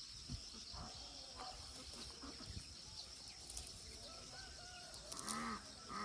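Birds calling in the open countryside over a steady high insect drone: faint chirps a few seconds in, then two louder calls near the end.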